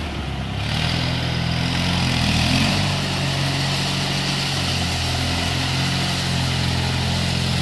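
Engine of a walk-behind power trowel running steadily, its note getting a little louder about a second in and wavering slightly in pitch.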